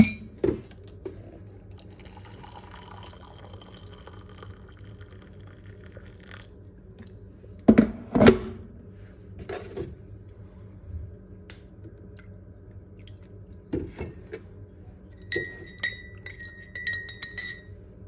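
Glassware and tableware clinking and knocking, with a few louder knocks about halfway through and a quick run of bright, ringing glass clinks near the end.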